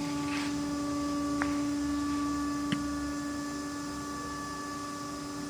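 Steady electric hum of a CNC glass-cutting machine: one low tone with overtones, with a couple of faint clicks.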